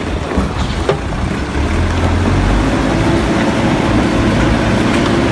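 A heavy engine running steadily with a deep rumble, a steady low hum settling in about halfway through.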